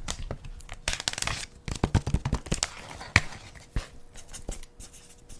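Close-up crinkling and crackling from objects being handled, with a quick irregular run of sharp clicks and taps.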